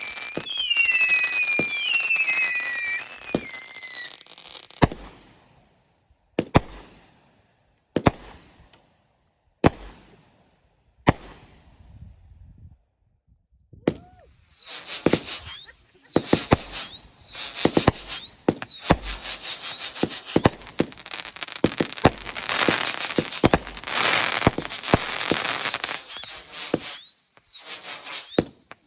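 Consumer fireworks going off: a few seconds of falling whistles, then single sharp bangs about every second and a half, then a long dense run of rapid crackling and popping with short whistles through it.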